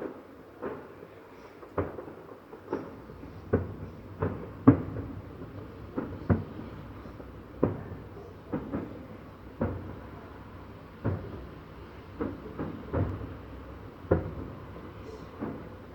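Fireworks salute shells bursting one after another, irregularly and a little faster than one a second, each a dull bang with a short echoing tail.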